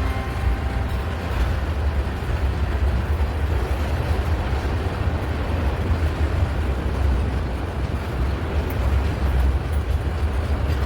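Train running past with a steady low rumble and a rushing noise.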